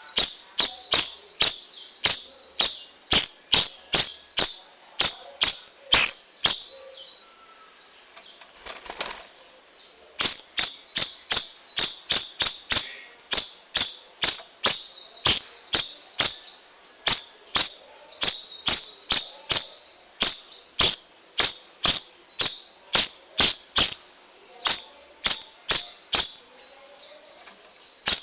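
Cucak rawis songbird singing continuously: loud, sharp, high notes repeated about three a second in runs, with a short break about seven seconds in.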